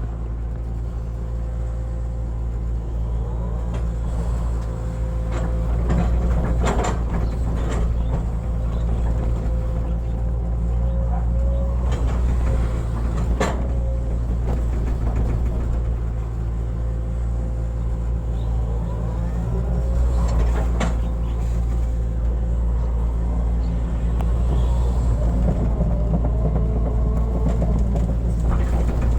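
Hitachi hydraulic excavator's diesel engine running steadily while it works, with a few sharp knocks spread through.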